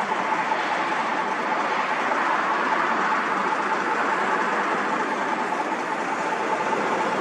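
Passenger train hauled by an EP07 electric locomotive running past, a steady rushing noise of wheels on the rails with no breaks or pauses.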